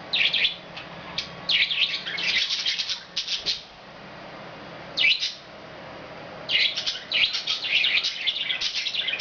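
Budgerigars chirping and warbling in quick high bursts, several runs of rapid chatter with short pauses between them.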